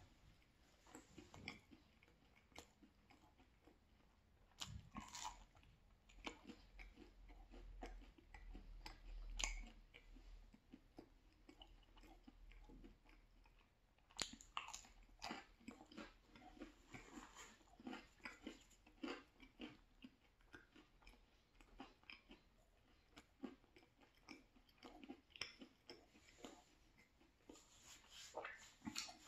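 Close-miked, faint chewing and biting of pizza: small irregular crunches and mouth clicks as mouthfuls of pizza slice and crust are chewed.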